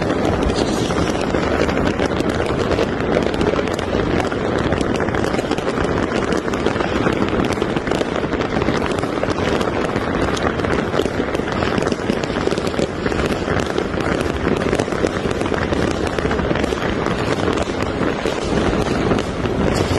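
A dense, continuous barrage of fireworks and firecrackers, a steady rapid crackle of countless small bangs with no let-up.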